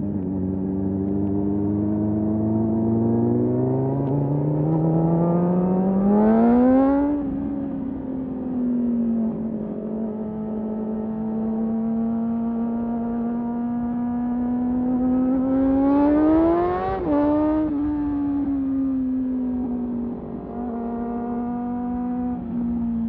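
Motorcycle engine heard while riding. Twice its note climbs steadily in pitch, then drops back quickly as the throttle is rolled off or a gear is changed. Between the two climbs it holds a steady cruising note.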